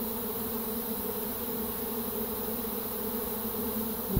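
Honey bee swarm buzzing around a Langstroth hive as the bees come back and filter in at the entrance: a dense, steady hum that holds one pitch. A brief tap sounds near the end.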